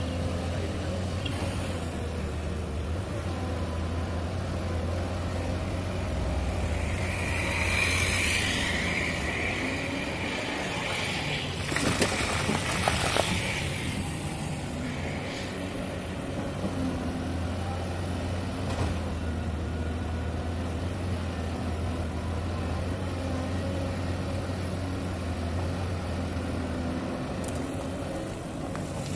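Caterpillar 320D hydraulic excavator's diesel engine running steadily under load. A high whine comes in for a few seconds about a quarter of the way in. Near the middle comes the loudest sound: the bucket scraping and crunching through rock.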